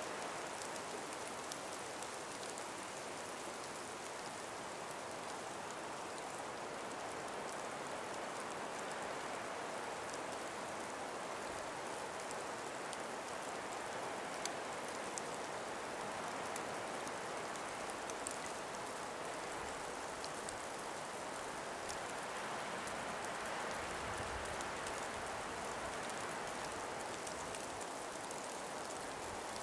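Steady soft hiss of a light breeze through snow- and ice-laden forest trees, with faint scattered ticks. A brief low buffet about three-quarters of the way through.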